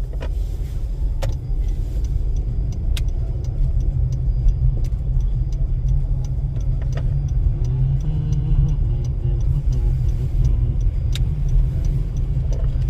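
Car driving, heard from inside the cabin: a steady low rumble of engine and road noise, with a few sharp clicks or knocks scattered through it.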